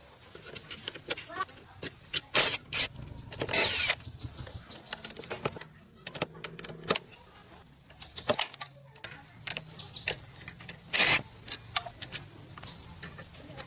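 Irregular clinks, knocks and scrapes of hand tools on metal parts during mechanical repair work, with a few longer rasping bursts.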